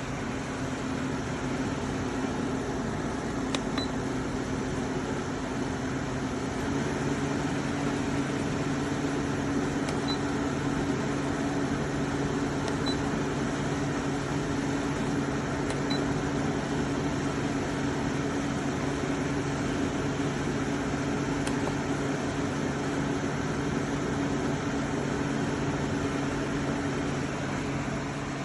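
KGOGO 7000 BTU portable air conditioner running: a steady low hum over a rush of fan air, the hum stepping up slightly in pitch about six seconds in. A few faint short high pips come through. The running noise is what the reviewer calls simply too loud, unsuitable for a bedroom.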